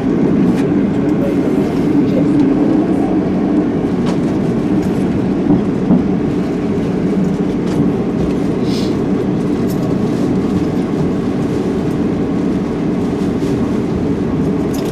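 Passenger train running, heard from inside the carriage: a steady low rumble with occasional short clicks from the wheels.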